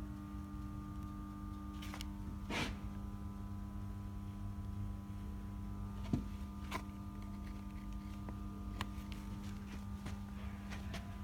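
Steady electrical hum, with a few faint clicks and taps scattered through it.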